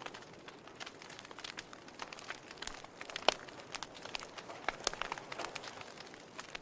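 Wood fire in a fireplace crackling: irregular small snaps and pops from burning logs, with one sharper pop about halfway through.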